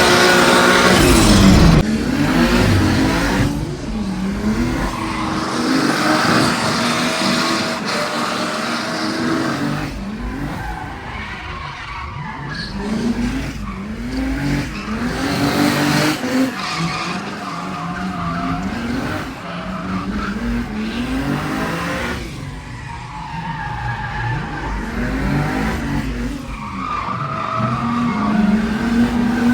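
Turbocharged 2JZ inline-six engine of a drift car, a swapped Genesis Coupe, revving up and falling back again and again as it is driven sideways, with tyres skidding. Loudest in the first two seconds.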